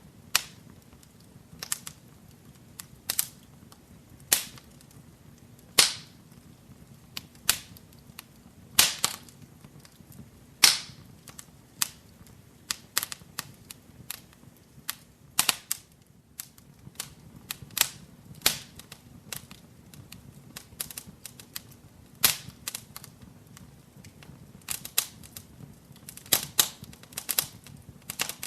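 Fire burning in a fireplace, crackling with irregular sharp pops and cracks, some in quick clusters, over a faint steady low rumble.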